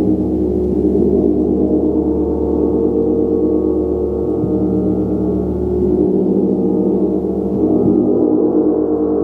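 Gong played continuously, sustaining a dense, steady wash of many overlapping low tones, with soft strokes every second or two keeping the sound going.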